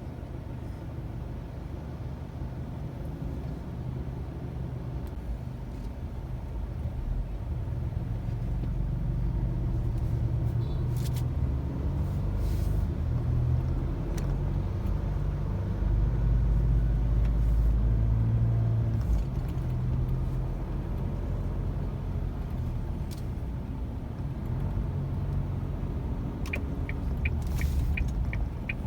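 Car driving, a steady low road-and-engine rumble that swells louder about halfway through. Near the end a quick, regular ticking starts, about three clicks a second.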